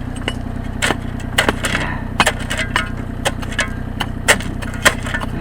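Excavator engine running steadily at low revs, with a scattering of sharp knocks and clanks over it, the loudest a little past four and near five seconds in.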